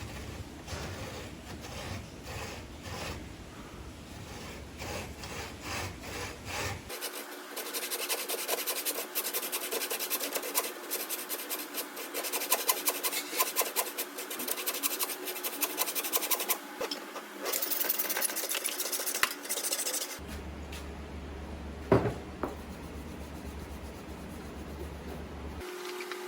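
Wood being worked by hand, a tool scraping across it in rapid, rhythmic strokes, in several cut-together stretches that are loudest through the middle. Near the end it goes quieter under a low hum, with one sharp click.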